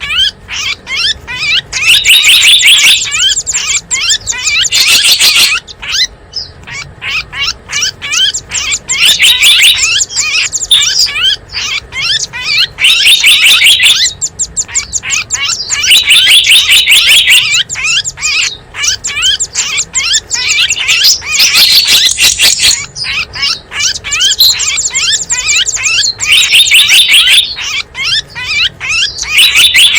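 Dense, loud twittering of small birds: rapid high chirps and trills coming in louder bursts every two to three seconds. It is a bird-lure recording made to call in small wild birds.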